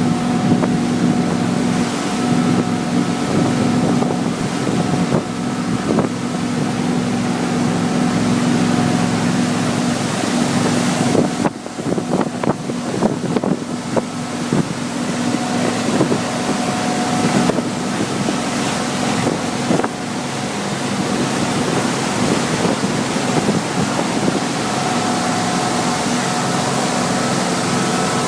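Motorboat engine running steadily, with wind and water noise over the microphone. Near the middle the engine hum briefly weakens amid irregular knocks and gusts.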